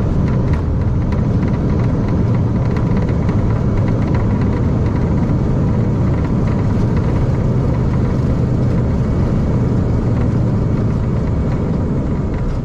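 Airbus A320 heard from inside the cockpit just after touchdown: a loud, steady rumble of engines, airflow and runway roll.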